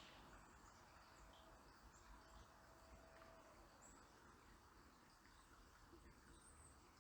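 Near silence: faint outdoor background hiss with a few short, faint high bird chirps.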